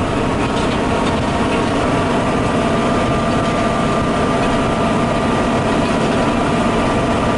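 Massey Ferguson 8160 tractor engine running steadily under load, with a steady mechanical whine over the engine drone.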